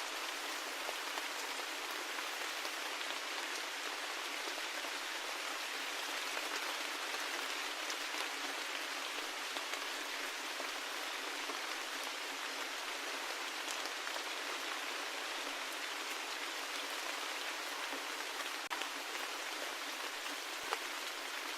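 Steady rain falling, an even hiss with a few single drops ticking out, the sharpest about two seconds before the end.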